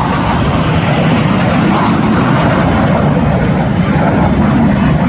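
Jet aircraft engine noise from a display jet flying over: a loud, steady rush of sound with no breaks.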